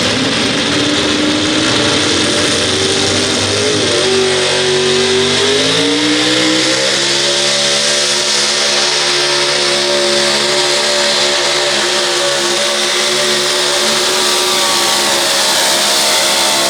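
Four-wheel-drive pulling truck's engine revving up over the first several seconds, then held at high, steady revs under load through the pull.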